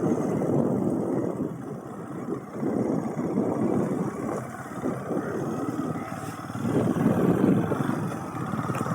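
Motorcycle running on the move, its engine noise mixed with a rumbling rush of air, rising and falling in level.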